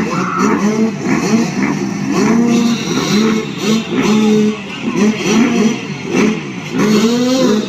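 Several motocross bikes racing together, their engines revving hard, each climbing in pitch, then dropping as it shifts, over and over in overlapping waves.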